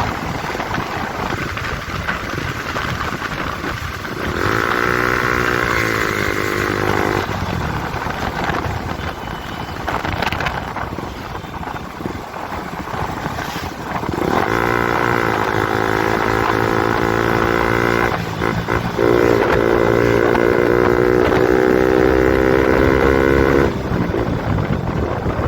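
KTM RC 200's single-cylinder engine through a loud Akrapovic exhaust with the dB killer removed, revving up and holding high revs twice: once about four seconds in, and again from about fourteen seconds, with a brief break near eighteen seconds like a gear change. A rushing noise lies under it between the revs.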